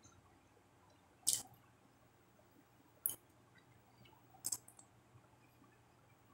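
Close-up eating sounds: three short, wet mouth clicks and lip smacks while chewing fish eaten by hand, spaced a second or two apart, the last one doubled.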